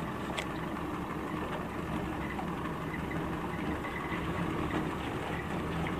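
1986 Yamaha 40 hp three-cylinder two-stroke outboard motor idling steadily.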